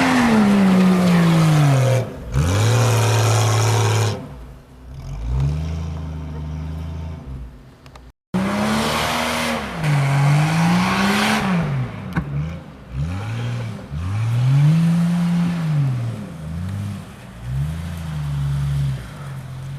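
Off-road 4x4's engine revving hard and dropping back again and again, over a dozen rises and falls in pitch, with a short break in the sound about eight seconds in.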